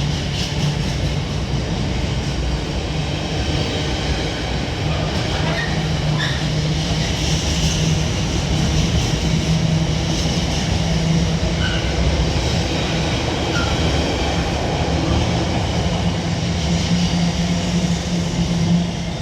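A train running past on the main line: steady rolling noise with a low hum throughout. The noise drops away sharply at the very end.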